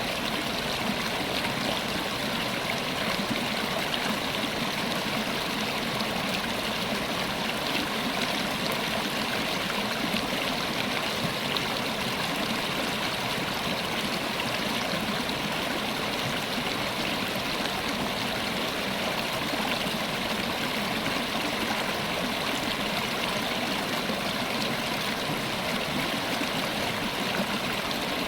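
River water running over rocks in a steady, even rush with some trickling and gurgling.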